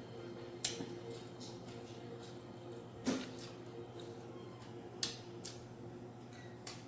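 Close-miked eating sounds from a seafood meal: wet mouth smacks and chewing clicks, four sharp ones spaced a second or two apart, over a steady low hum.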